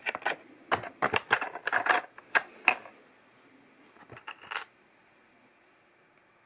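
Plastic LEGO pieces clicking and clattering as they are handled and pressed together: a quick run of sharp clicks over the first few seconds, then a few more about four seconds in.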